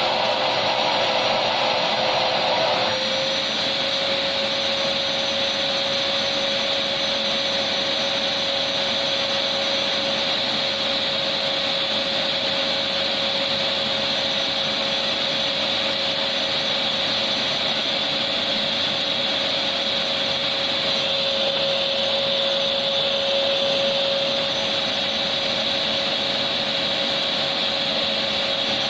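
Electric vacuum cleaner running steadily: an even, loud rushing hiss with a constant motor whine underneath. Its tone shifts slightly about three seconds in and again near the end.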